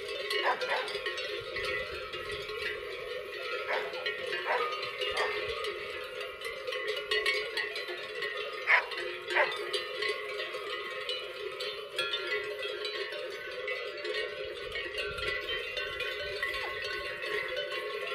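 Cowbells hung on cattle clanking and ringing steadily, with a few sharper strikes standing out now and then.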